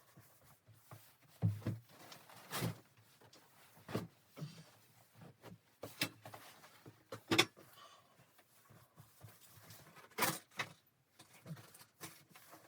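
Irregular knocks, clicks and rustles of objects being handled, with the sharpest knocks about a second and a half, six, seven and a half and ten seconds in.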